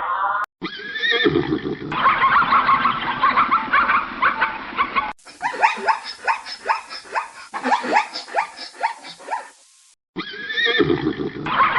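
A run of animal calls in separate spliced clips, the middle one a quick series of short falling calls, several a second.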